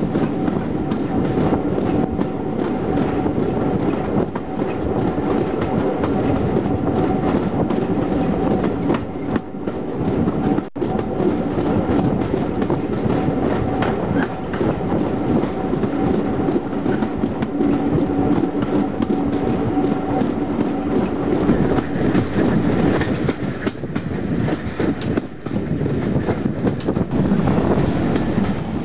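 Steam-hauled passenger train running, heard from an open carriage window: a steady rumble of the coaches' wheels on the track with a continuous clatter of small knocks.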